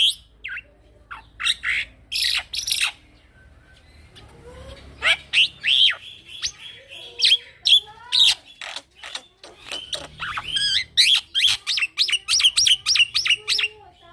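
Young male black-winged myna (jalak putih) singing: loud sharp whistles and chirps that sweep up and down, a short pause about three seconds in, then a fast run of repeated notes, about four a second, near the end.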